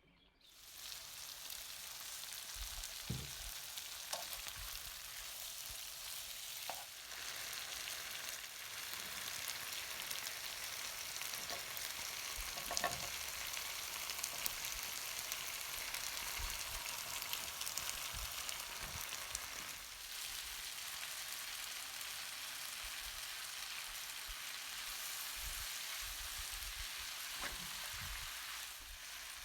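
Food sizzling as it fries in a hot pan, a steady hiss. A few knocks of a utensil stirring are scattered through it.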